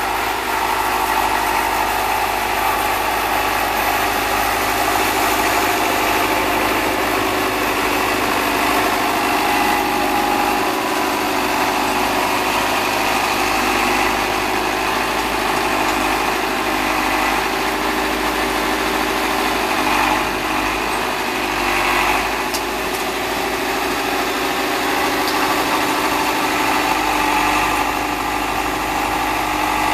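Case David Brown 1212 tractor's diesel engine running steadily under the snowblower, with a brief waver in pitch about two-thirds of the way through.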